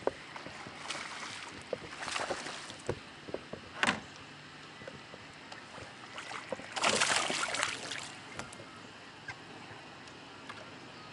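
Sounds of a fishing kayak on the water: a few splashy swishes, the loudest about seven seconds in, with scattered knocks and clicks.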